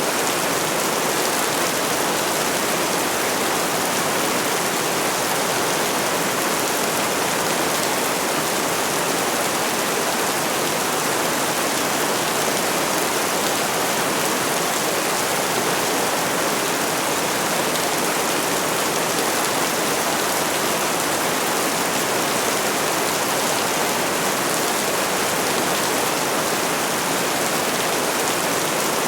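Heavy rain falling: a steady, even hiss with no separate drops or thunder standing out.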